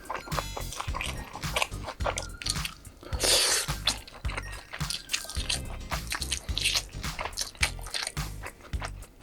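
Close-miked eating: biting and chewing chicken skewers and spicy cold noodles, with many short moist crunchy clicks. A louder noisy burst comes about three seconds in.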